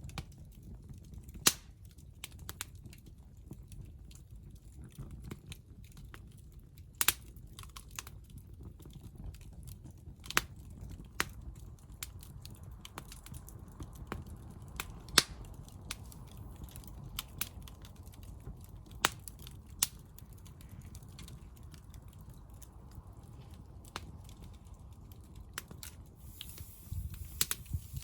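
Hardwood campfire burning, crackling with sharp pops at irregular intervals over a low steady rumble of the flames.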